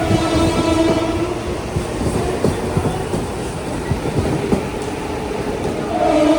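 Train running along the track through the station, its wheels knocking irregularly over the rail joints. A steady humming tone sounds over the clatter for the first second or so, then fades.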